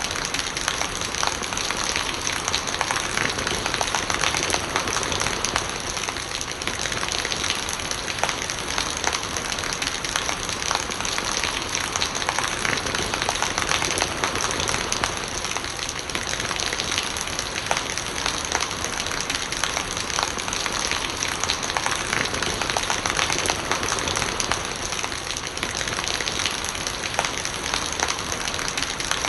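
Steady heavy rain, with many close drops ticking sharply on surfaces and rainwater running and gurgling underneath.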